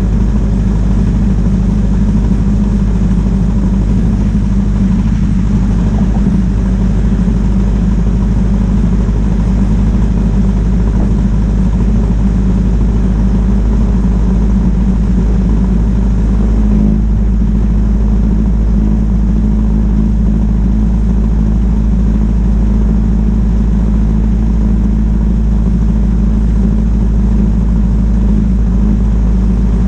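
Ford Model T's four-cylinder side-valve engine running steadily at cruising speed, with a heavy low rumble of wind and road noise from the open car.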